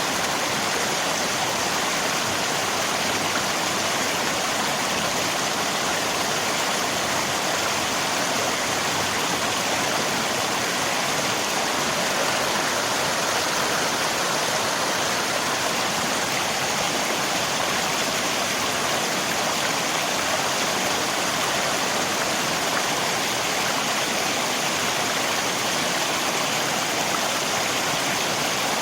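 River water rushing with rain falling, a steady, even hiss that does not change.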